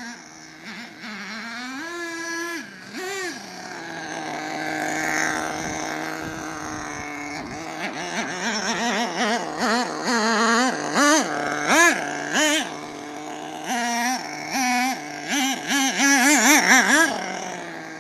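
Small nitro engine of an RC monster truck revving up and down as it is driven, its pitch rising and falling with each burst of throttle. The bursts come quick and often through the second half.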